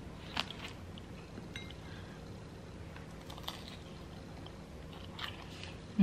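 Faint chewing and mouth sounds of a person eating noodles and dumplings, with a few soft clicks.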